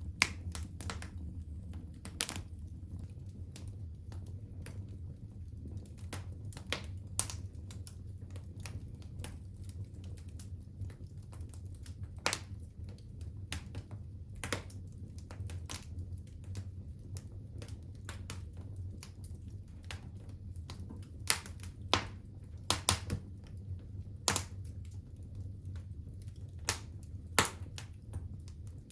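Wood fire burning in a fireplace: a steady low rumble of the flames with irregular crackles and snaps, a few louder pops in the later part.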